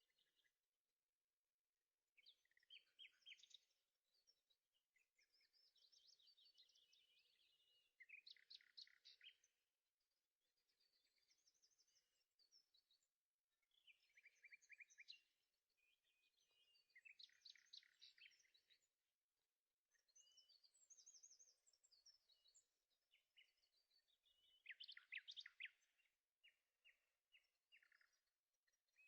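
Faint songbird singing: phrases of quick chirps and rapid trills, one every couple of seconds.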